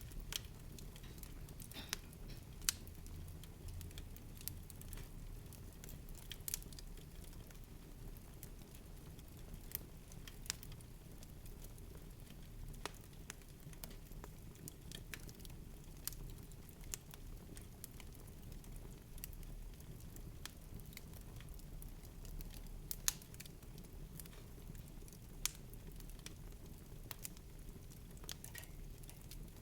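Ambience track of sparse, irregular crackles and pops, a few a second, over a steady low rumble.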